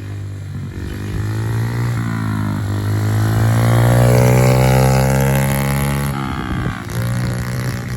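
Small motorbike engine running as it passes close by: it grows louder to a peak about four seconds in, then fades, its pitch shifting as it goes past.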